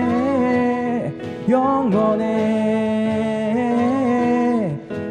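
Voices singing a slow Korean worship chorus, holding long notes. There is a short break about a second in and another near the end.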